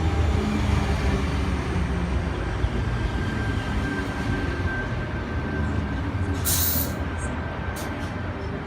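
Sydney Trains Tangara electric suburban train running at the platform, a heavy low rumble that slowly fades, with a thin steady tone for a few seconds in the middle. A short burst of hiss comes about six and a half seconds in.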